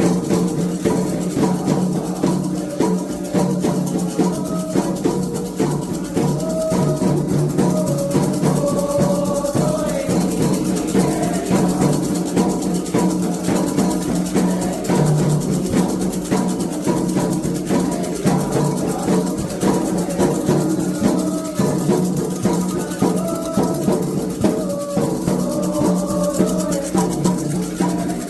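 Candomblé ritual music: steady, dense drumming on hand drums with a rattle shaking along, and a wavering melodic line above the percussion.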